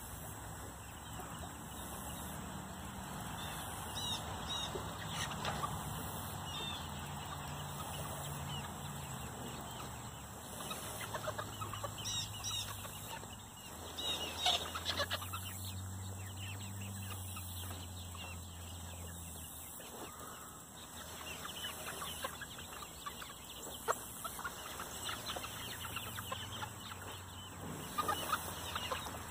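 A flock of chickens clucking, with scattered short calls throughout and a few sharper knocks near the end.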